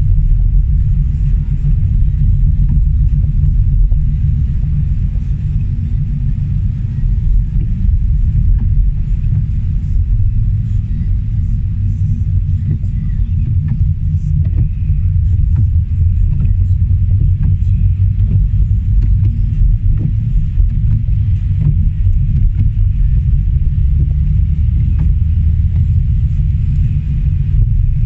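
Steady low rumble of a car being driven, heard from inside, with faint scattered ticks over it.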